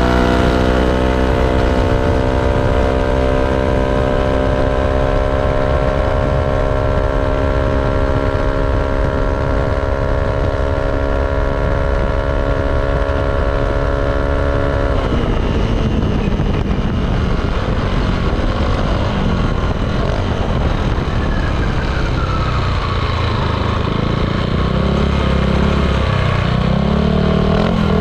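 Yamaha Aerox 155 scooter's single-cylinder engine through a ROB1 aftermarket exhaust, ridden on the road: it holds a steady high rev for about fifteen seconds, then drops away suddenly as the throttle is shut, and picks up again near the end.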